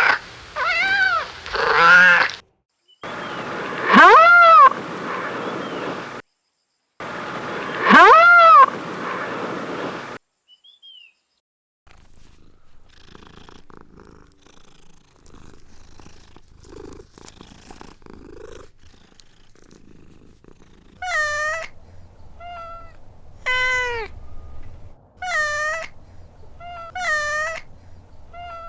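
Kittens meowing: a few long rising-and-falling meows, then a quieter stretch with low purring, then a run of short repeated meows near the end. Abrupt cuts separate the clips.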